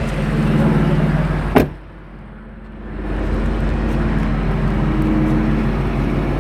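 BMW X5 M Competition's twin-turbo V8 idling steadily, with a car door shut with a single sharp slam about a second and a half in. The engine sound is muffled for a second or so after the slam, then comes back.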